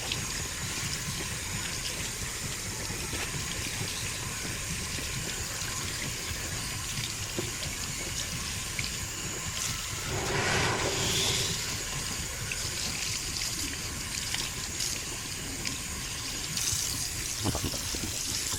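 Water running and splashing as a car air filter is hand-washed and scrubbed, like clothes being washed by hand, with a louder rush of water about ten seconds in.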